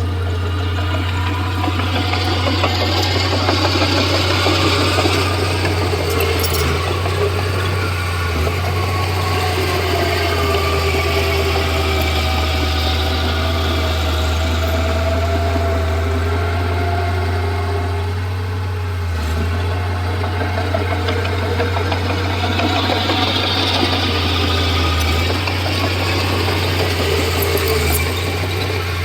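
Diesel engine of a Komatsu D31P crawler bulldozer running steadily, with a constant low hum and a noisier upper layer that swells and eases at times.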